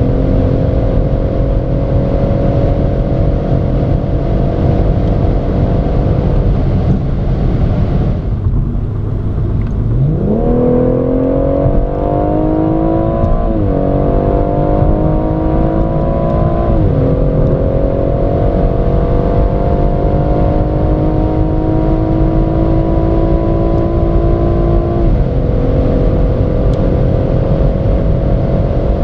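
BMW M140i's 3.0-litre turbocharged B58 straight-six heard from inside the cabin at high speed. It runs steadily, then drops away under wind and tyre noise for a few seconds. About ten seconds in it revs up sharply and pulls hard from about 140 to 240 km/h, the pitch climbing in each gear and dropping suddenly at each upshift of the Steptronic gearbox.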